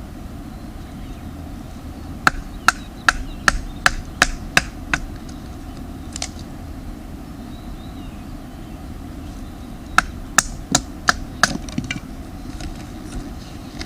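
Firewood being chopped or split, sharp wooden strikes in two runs: about eight quick strokes, then after a pause about five more. The strokes are roughly two or three a second.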